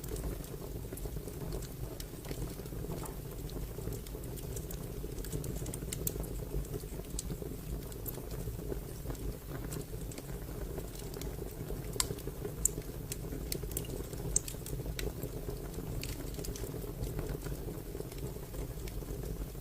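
Wood fire crackling: a steady low rumble of burning with frequent small sharp crackles, and a few louder pops in the middle.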